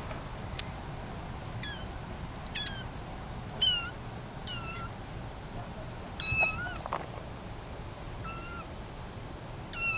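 Kitten meowing over and over: about seven short, high calls, roughly one a second.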